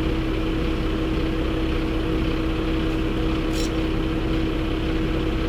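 Steady running noise of a truck under way, with a constant hum over an even rumble and hiss.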